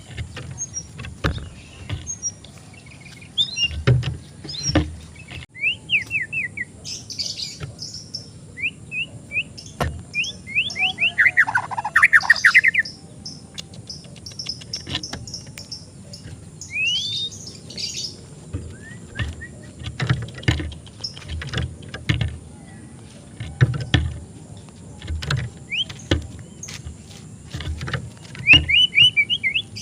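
White-rumped shama (murai batu) calling in scattered bursts of quick chirps and runs of rapid falling notes, with a louder, denser run of song about twelve seconds in. Sharp knocks and low thumps come in between the calls.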